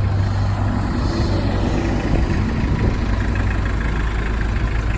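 Toyota 2C naturally aspirated four-cylinder diesel idling steadily.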